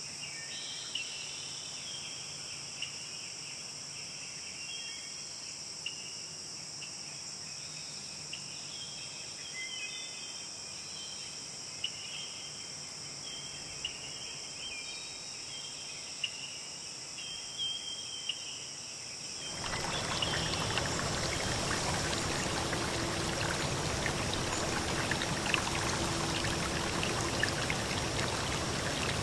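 Steady, high-pitched insect chorus of crickets, with short bird chirps over it. About two-thirds of the way in it changes abruptly to the steady, louder sound of a running stream.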